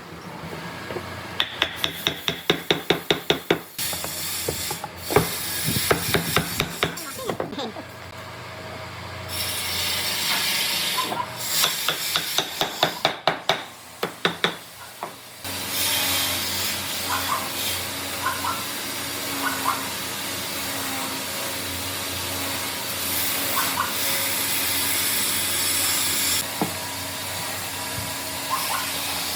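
Woodworking tool sounds: a quick series of sharp strikes or taps on wood, about five a second, then scraping and hissing mixed with more strikes. About halfway through, a power tool starts running steadily with a low even hum.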